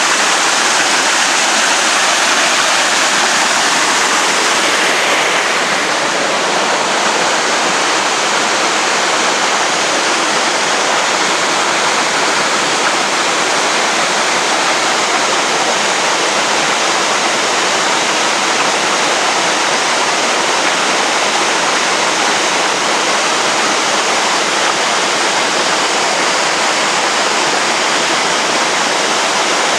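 Waterfall: a steady, loud rush of falling water, with the high hiss easing slightly about five seconds in.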